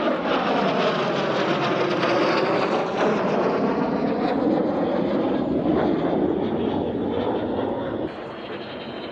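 Jet aircraft flying past: a loud, steady rush of engine noise with slow sweeping shifts in tone as it passes, dropping off abruptly about eight seconds in.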